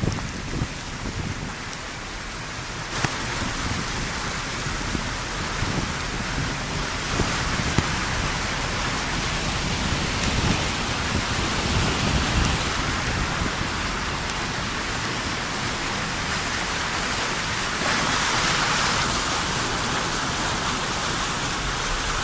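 Rain falling steadily, with low rumbles now and then; the hiss grows a little louder near the end.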